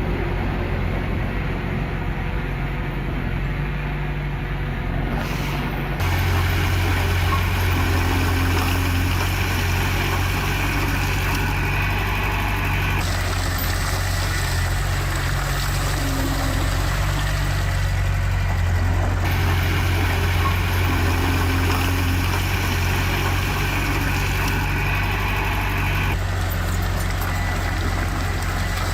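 Heavy diesel earthmoving machinery, bulldozer and dump truck engines, running steadily with a continuous low drone. The sound shifts abruptly several times, starting about six seconds in.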